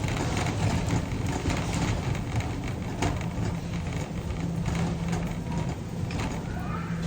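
Shopping cart being pushed, its wheels rumbling and the wire basket rattling with many small clicks, over a steady low hum.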